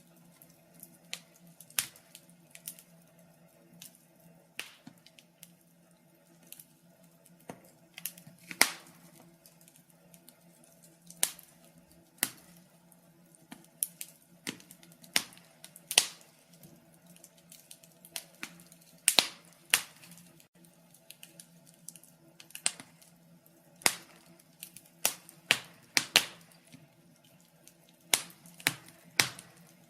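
Wood fire crackling: irregular sharp pops and snaps, a few each second at most, some louder than others, over a faint steady low hum.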